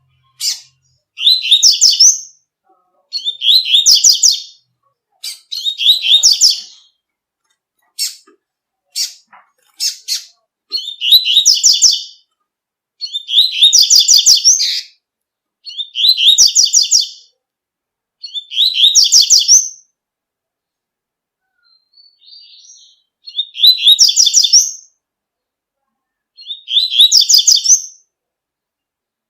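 Double-collared seedeater (coleiro) singing its tui-tui song. Short, bright, high-pitched phrases of about a second each are repeated every two to three seconds, with a few single sharp notes in between.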